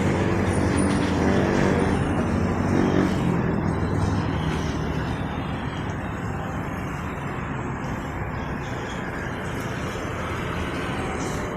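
Road traffic: a truck's engine passing close by, its hum loudest in the first three seconds or so, then fading into steady traffic noise.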